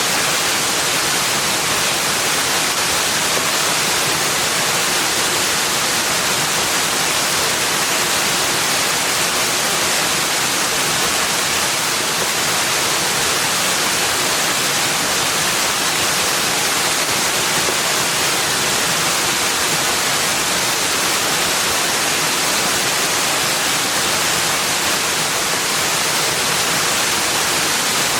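A steady, even rushing hiss, strongest in the upper range, with no birdsong or other distinct events.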